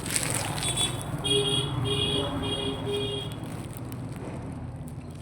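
A vehicle horn gives four short, evenly spaced beeps over a steady low rumble.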